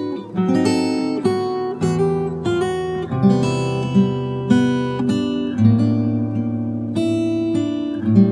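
Acoustic guitar music: slow plucked and strummed chords and notes ringing on.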